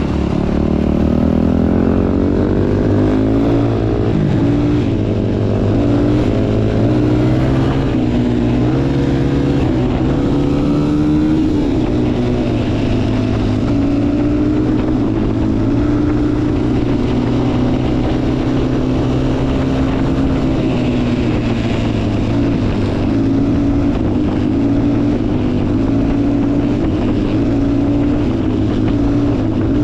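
Motorcycle engine running under way, its pitch shifting and rising over the first several seconds, then holding fairly steady at a constant speed, with wind noise.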